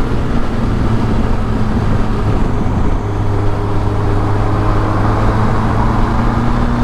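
1983 Suzuki GS1100E's air-cooled inline-four running under way with wind rushing past; its pitch climbs gradually over the second half as the bike gathers speed. The carburetors have just been readjusted leaner after running rich.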